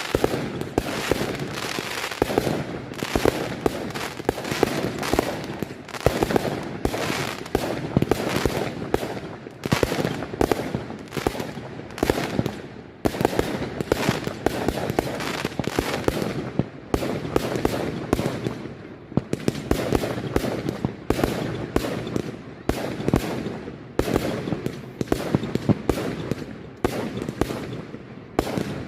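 Firework display at full intensity: a dense, unbroken run of shell bursts, bangs and crackling, many overlapping each second.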